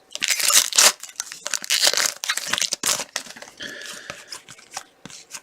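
A foil trading-card pack wrapper being torn open and crinkled by hand. The loud crackling comes in the first three seconds, then fades to lighter rustling of handled cards.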